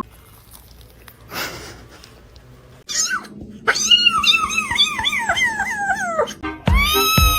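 Domestic cat yowling in a long run of wavering, up-and-down calls, then a single arching meow near the end, with background music starting under it.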